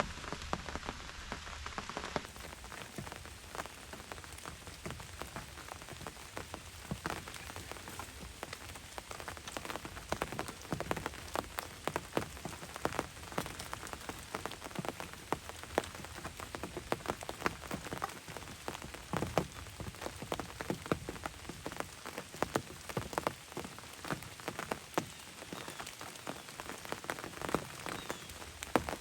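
Steady rain, with many separate drops tapping sharply on a hunting ground blind.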